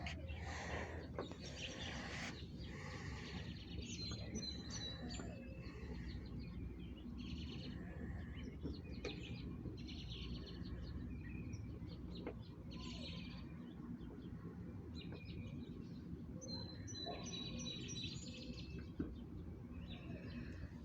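Songbirds calling and chirping in a backyard over a steady low rumble of outdoor noise. A quick run of high, falling notes is sung about four seconds in and again around seventeen seconds.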